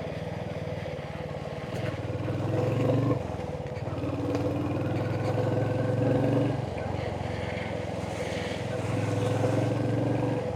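Royal Enfield Hunter 350's single-cylinder engine running on the move, the throttle opened and closed three times so that the engine swells louder and then eases back each time.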